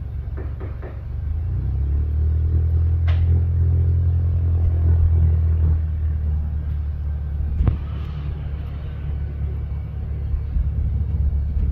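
A low engine rumble swells about a second in, holds, and eases off after about six seconds, with two short sharp knocks along the way.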